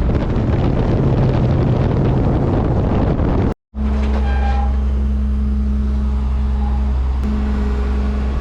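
Ford F700 dump truck engine running under load with a dense, rough rumble. The sound cuts out briefly about three and a half seconds in, then comes back as a steady, even low drone.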